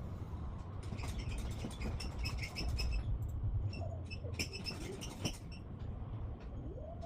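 Small birds chirping in quick runs of short, high repeated notes over a steady low rumble, with a lower gliding call near the end.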